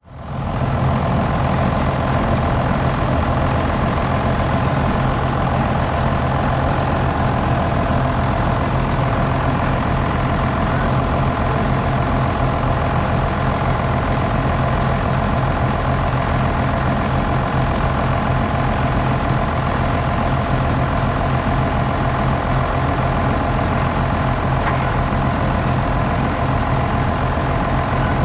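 Engine running steadily at a constant speed, fading in at the very start.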